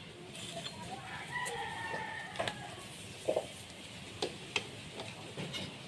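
A rooster crowing once, a drawn-out call of about two seconds, followed by a few sharp clicks and knocks.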